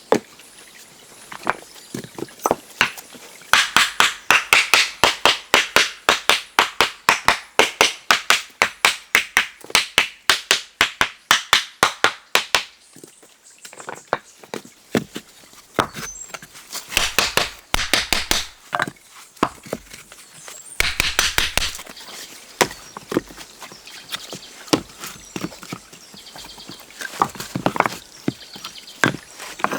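A hand tool striking wood repeatedly, about three blows a second, in a steady run lasting around nine seconds. It then carries on in irregular, scattered strikes.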